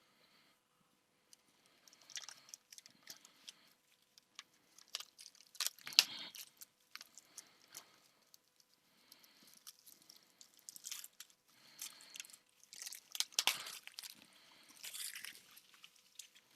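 Plastic shrink wrap crinkling and tearing and cardboard packaging handled in irregular bursts as a Pokémon booster box is unwrapped and opened, with a sharper crack about six seconds in and a busier stretch of crackling near the end.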